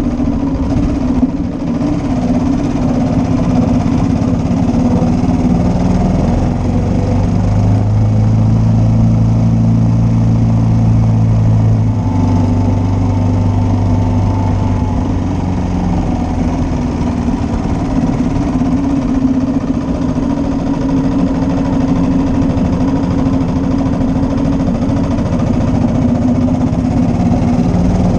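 1941 Matchless G3L's 350 cc single-cylinder engine running under way, its note shifting several times as the revs change.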